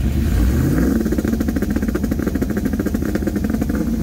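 Cammed 6.0 L LS2 V8 of a 2006 Trailblazer SS revving up, then held at high revs with a rapid, even crackling stutter, as when an engine runs against a rev limiter.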